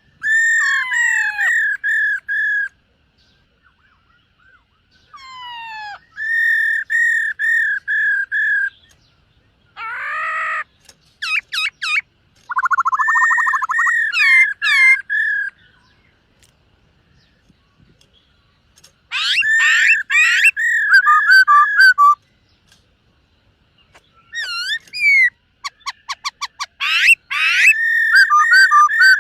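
Black-throated laughingthrush singing: phrases of repeated rich whistled notes, each a few seconds long with short pauses between, some opening with quick sliding notes.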